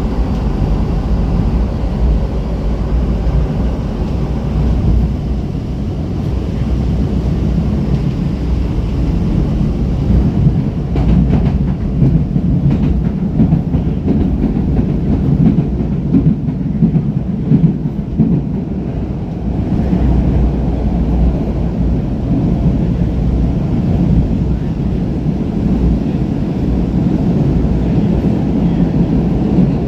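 Rapid-transit train running, a steady low rumble with rattling and clatter that thickens in the middle stretch.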